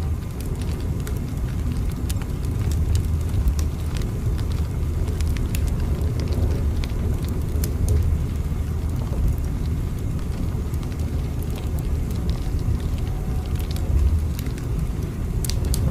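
Steady low rumble of a moving train, with scattered light crackles and ticks over it.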